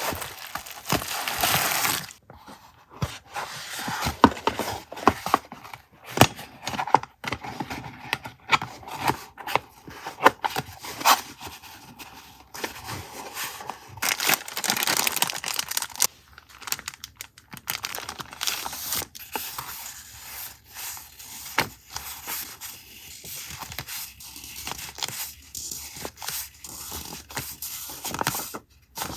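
Paper and packaging being handled up close: rustling, tearing and scraping, with many sharp irregular taps and clicks, and louder stretches of rustling near the start and about halfway through.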